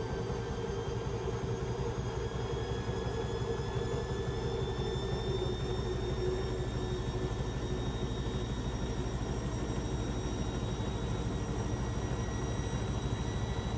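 Beko WMB 71643 PTE washing machine's brushed motor driving the drum up in speed, its whine rising slowly in pitch over a steady low rumble.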